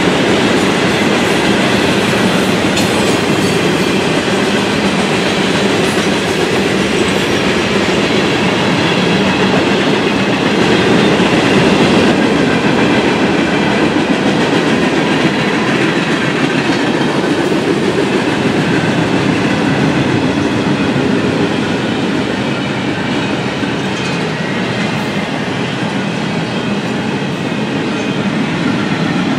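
Freight cars of a mixed freight train rolling past at close range: a steady, loud noise of steel wheels on rail, with faint clicks throughout.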